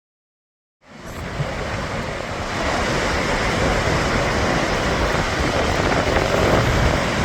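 Gullfoss waterfall's heavy water running as a steady rushing noise, fading in about a second in, with wind buffeting the microphone.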